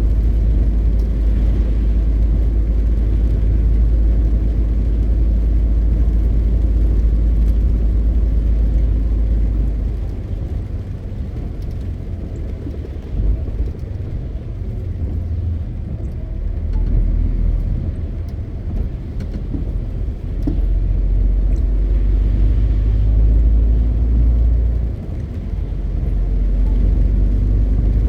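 MAN TGX 520 truck under way: a steady low drone of its inline-six diesel and road rumble. The drone drops off for a few seconds about ten seconds in, and briefly again twice later on.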